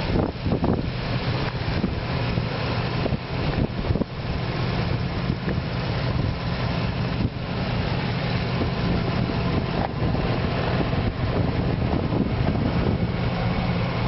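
Ford F-150's 5.4-litre V8 idling steadily, with wind buffeting the microphone.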